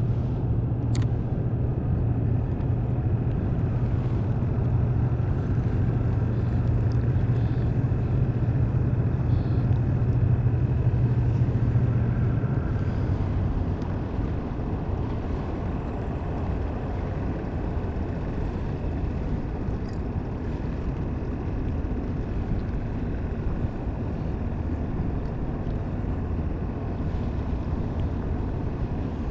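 Boat motor running with a steady low hum, easing off about twelve seconds in and running on more quietly.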